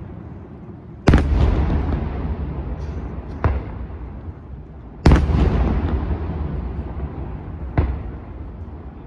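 Daytime fireworks exploding: two heavy booms about a second in and again about five seconds in, each trailing off in a long rolling rumble, with two lighter, sharper cracks in between and near the end.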